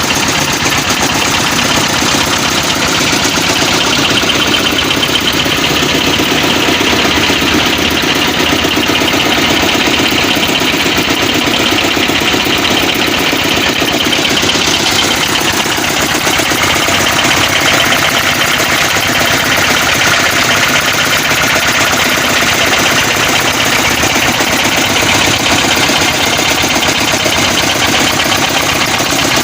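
Old Petter single-cylinder-type stationary diesel engine running steadily, a loud, fast, even chugging of its firing strokes.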